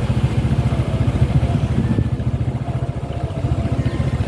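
Motorcycle engine running steadily, a loud, rapid, even low-pitched putter of firing pulses.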